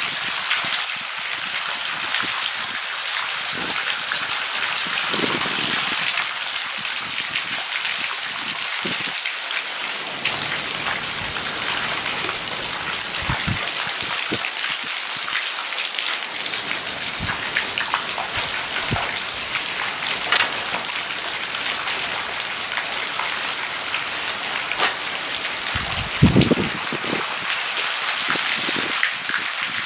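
Heavy thunderstorm rain falling steadily, a constant hiss with scattered close drops splatting. A short low thump comes near the end.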